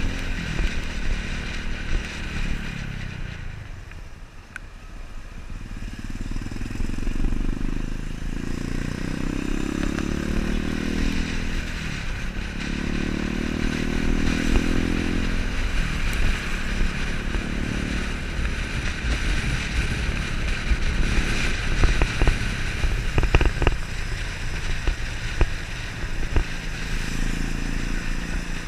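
Motorcycle engine pulling through the gears, its pitch climbing in several sweeps that each drop away at a shift, over steady wind and road rumble.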